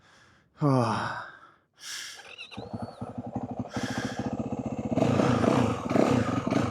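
Yamaha WR450F single-cylinder four-stroke engine running at a low idle with fast, even firing pulses, then getting louder as it is throttled up about five seconds in.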